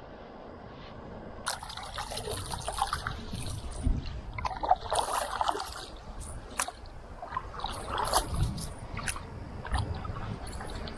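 Canoe paddle strokes in calm water: the blade dipping and pulling, with water trickling and dripping off it, about one stroke every three seconds.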